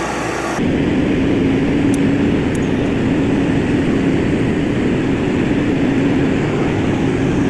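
Heavy diesel earthmoving machinery running steadily, a constant engine drone at working revs. The sound changes abruptly and grows louder about half a second in.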